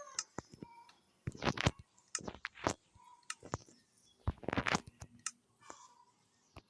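Irregular sharp clicks and taps, some in quick clusters of several, with short pauses between: small hard parts being handled and worked by hand.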